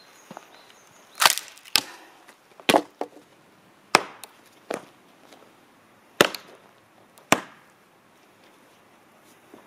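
Axe striking into a log over and over while splitting firewood: about six hard, sharp blows with a few smaller knocks between, irregularly spaced, the log not yet splitting.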